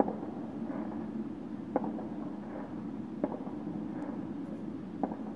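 Firecrackers and fireworks banging at a distance: four separate bangs, about one every one and a half seconds, over a steady background rumble.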